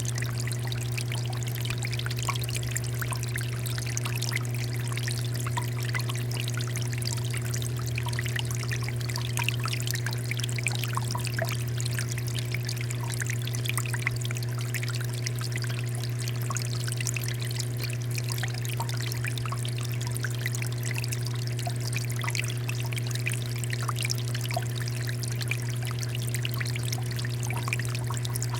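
Water fountain flowing: a steady stream of water pouring and splashing without pause, over a steady low hum.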